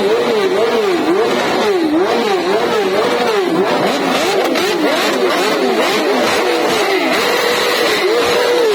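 Superbike inline-four engines revved hard in quick blips, the pitch dropping and climbing back about twice a second. Two engines overlap through the middle, and near the end the pitch is held high for a moment.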